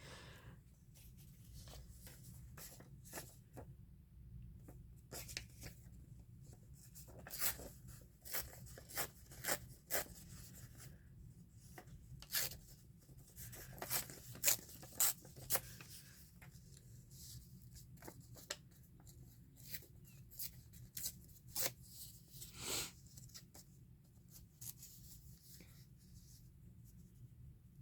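Paper and small craft supplies being handled on a table: scattered light taps, clicks and rustles, with a few longer rustling swishes, over a low steady hum.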